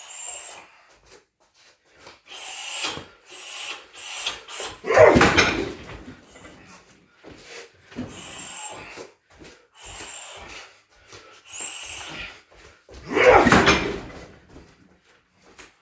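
Two heavy shin kicks thudding into a hard rubber car tyre on a weighted boxing stand, about eight seconds apart, with quieter scuffs and knocks between.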